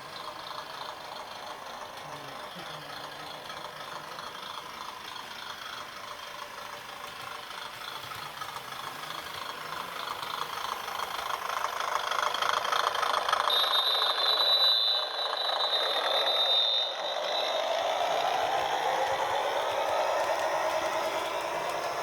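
HO-gauge model diesel railcars running on sectional track, with the rattle of wheels on rail joints and the motor's hum. It grows louder as the train nears, peaks in the second half, and a high steady whine sounds for about three seconds near the loudest point.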